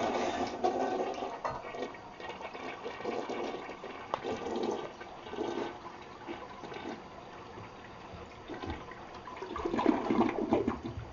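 Toilet flushing: a rush of water at the start, then uneven gurgling that swells again near the end.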